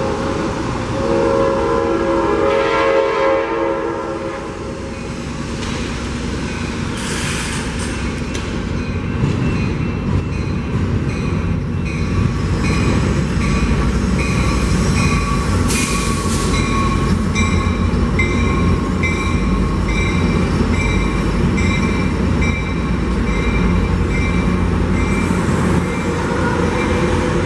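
Amtrak California passenger train going by: a multi-note horn sounding and dying away over the first few seconds, then the rumble of the train building, with a bell ringing in regular strokes through the second half.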